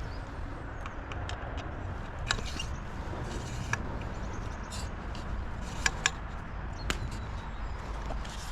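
Steady low outdoor background rumble with a few faint scattered clicks and light knocks.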